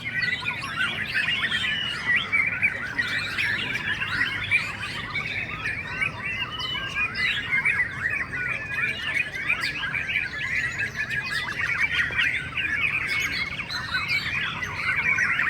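Many caged white-rumped shamas singing at once, a dense, unbroken chorus of overlapping whistles, chirps and trills, with a faint low hum underneath.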